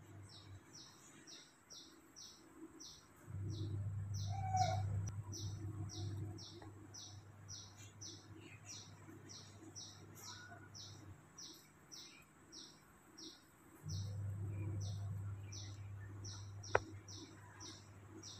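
A small bird chirping: one short, high, falling chirp repeated steadily about twice a second. A low hum rises and falls away twice underneath, and a single sharp click comes near the end.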